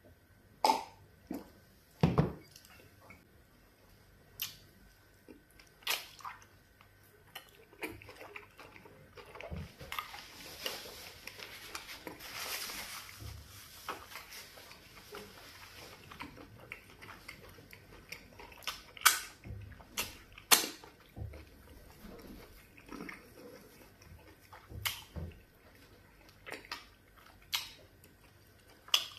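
Close-miked eating sounds of a man eating fufu and soup by hand: scattered wet mouth smacks, clicks and chewing, a few of them sharp and loud, with a soft hissing stretch in the middle.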